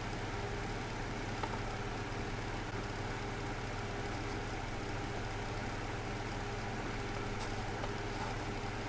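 A steady low mechanical hum, unchanging throughout, with a faint tick about a second and a half in.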